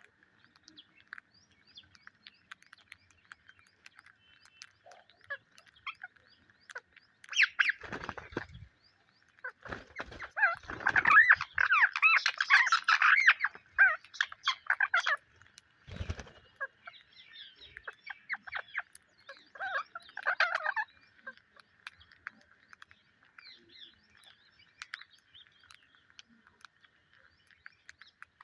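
Psittacula parakeets chirping and chattering, with louder bursts of squawky calls a third of the way in, in the middle and about two-thirds through, between sparse short chirps and clicks. A few dull thumps are mixed in.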